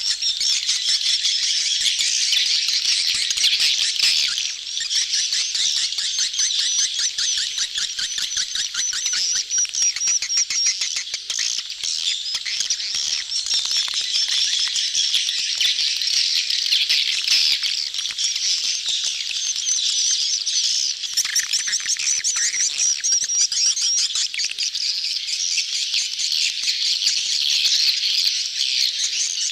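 A crowd of swiftlets chattering and twittering together in a dense, unbroken mass of rapid high chirps and trills: the mating and courtship calls of a swiftlet colony, played as a lure call to draw swiftlets into a nest house.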